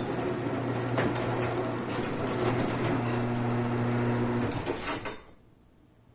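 Garage door opener motor running with a steady hum, stopping abruptly about five seconds in.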